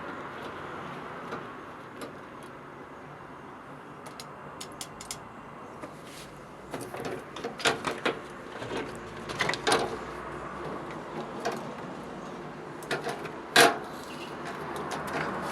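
Scattered knocks and clicks of things being handled, like a panel or door being moved, over a steady low hiss. They come in irregular clusters in the second half, with one sharp knock loudest near the end.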